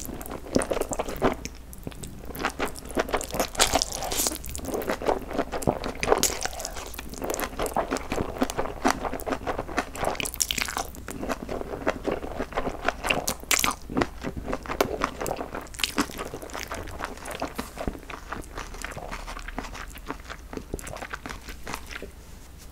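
Close-miked eating of spicy chewy cold noodles (jjolmyeon): slurping the noodles in, then steady wet chewing with many small crisp crunches from the bean sprouts and vegetables. The sounds grow sparser near the end.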